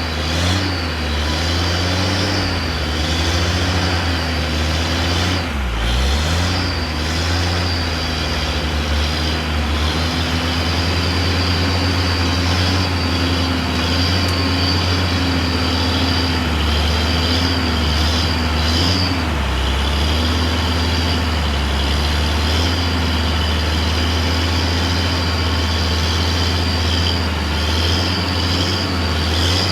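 Heavy truck engine running under load, its pitch wavering up and down as it labours, with a steady high whine above it.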